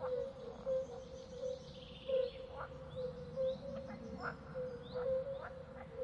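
Birds chirping again and again in short calls over a steady low droning tone.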